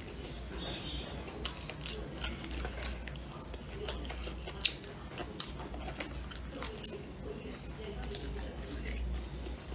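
Close-miked chewing of braised pork: irregular wet mouth clicks and smacks, the two sharpest a little after 2 seconds and near 5 seconds, over a low steady hum.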